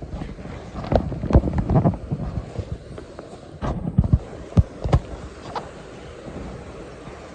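Irregular heavy thumps and scrapes of footsteps in PVC waders on river stones, picked up close by a chest-mounted phone, bunched about a second in and again around four to five seconds in, over a steady rush of stream water.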